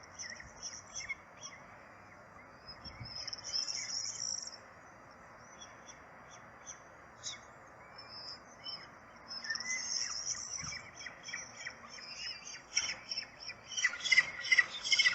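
Birds chirping at a nest: many short, high chirps, sparse at first, becoming loud and rapid near the end.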